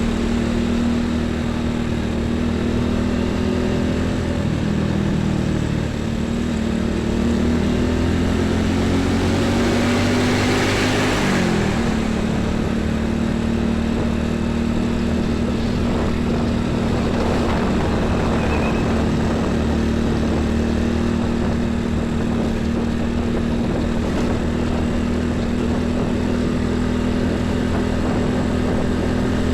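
Highway traffic dominated by heavy diesel trucks: a steady low engine drone, with one vehicle passing close about ten seconds in, its engine note rising and then dropping as it goes by.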